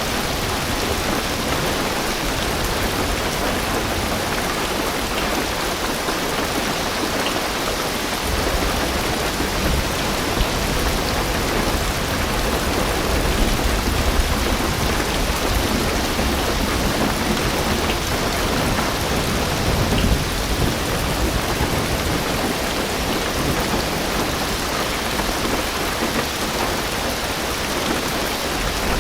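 Heavy rain drumming steadily on a car roof and windows, heard from inside the car. Low thunder rumbles from about a quarter of the way in, swelling a few times.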